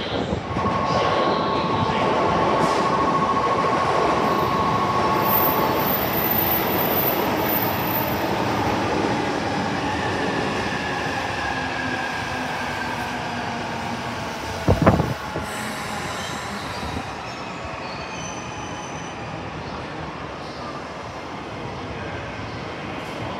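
E259 Narita Express electric train running past on the tracks, with a high steady wheel squeal over the first few seconds and its rumble easing off after that. A single sharp thump about fifteen seconds in.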